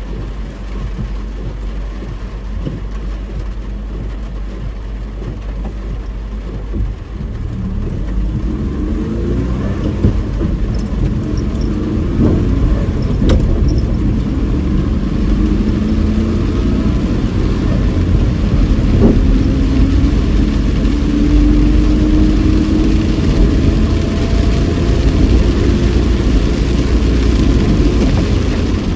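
Car driving on a rain-soaked road, heard from inside the cabin: a steady engine and tyre rumble that gets louder from about seven seconds in as the engine note rises with speed, with a hiss from the wet road building toward the end.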